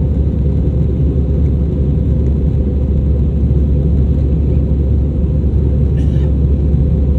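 Jet airliner's steady low rumble during takeoff, unchanging throughout.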